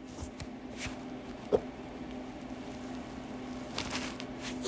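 A few faint clicks and taps over a steady low hum, with one sharper click about a second and a half in and several more near the end.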